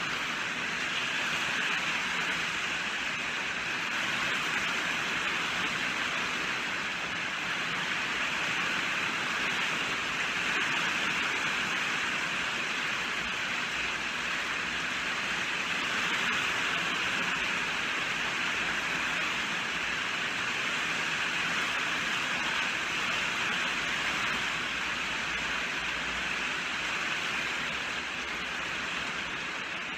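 Steady, dense rainfall: an even hiss of rain with no distinct drops or thunder.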